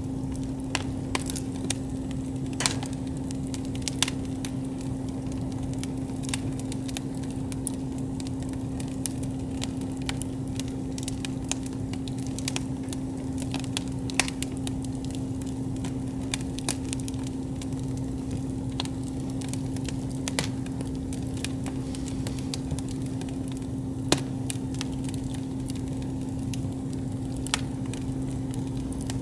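Wood campfire crackling, with irregular sharp pops and snaps, a few each second and now and then a louder one, over a steady low hum.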